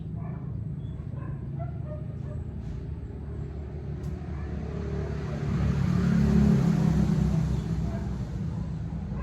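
Motor vehicle passing close by over a steady low engine rumble, swelling to its loudest about six seconds in and then easing off.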